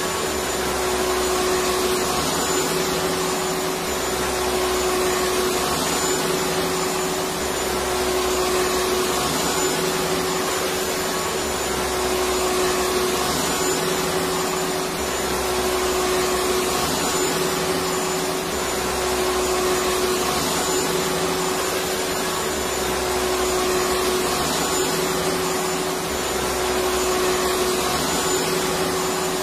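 Electric vacuum cleaner running steadily: a continuous motor whine over an even rushing of air, with a low rumble that swells and fades every few seconds.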